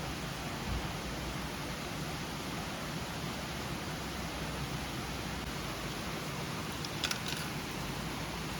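A mountain river rushing in a steady, even wash, with a brief faint click or clink about seven seconds in.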